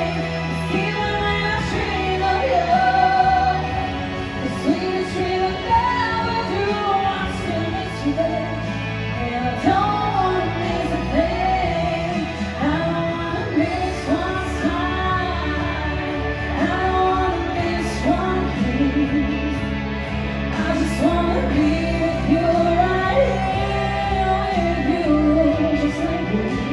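A singer performing a song live over instrumental accompaniment, holding long notes with vibrato above a steady bass line.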